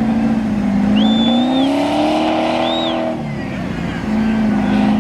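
Off-road 4x4 vehicle's engine running hard, its pitch rising and falling as it revs. It eases off about three seconds in and picks up again a second later. Two short, high whistling tones sound over it.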